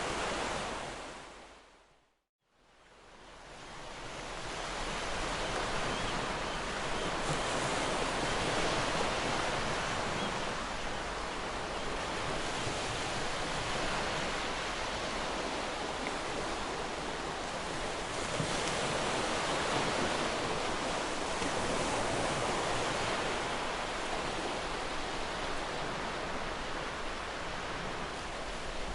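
Ocean surf washing on a beach, a steady rush of breaking waves with slow swells and ebbs. About two seconds in, the sound fades out to silence and fades back up over the next couple of seconds.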